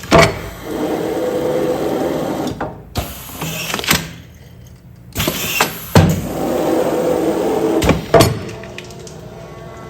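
Commercial container sealing machine running two sealing cycles. Each cycle opens with a sharp clack, then about two seconds of steady mechanical running; a second clack comes after the later run, near the end.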